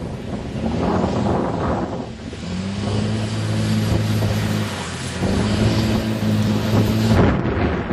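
Dodge Ram 2500's Cummins diesel engine revving up twice, each time rising in pitch and then holding, with a rushing hiss that cuts off suddenly near the end.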